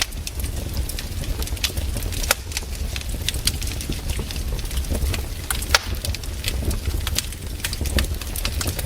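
Campfire burning, the wood crackling with irregular sharp snaps and pops over a low steady rumble.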